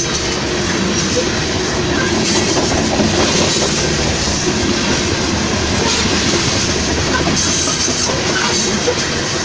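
A train passing close by, its wheels making a loud, steady noise on the rails.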